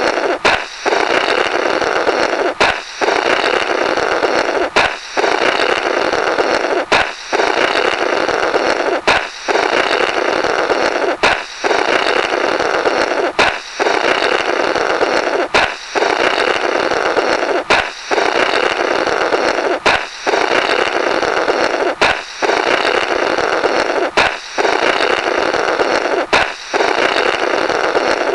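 Comic 'blorrrt' sound effect: a balloon pops sharply, then a buzzing blow through the burst rubber remnants lasts about two seconds. It repeats as a loop about every two seconds.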